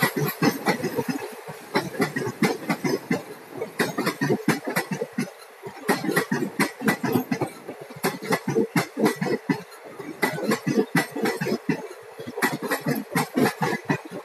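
Indian Railways passenger coaches rolling past at speed, the wheels clattering over the track in a dense, irregular run of sharp clicks over a steady rumble.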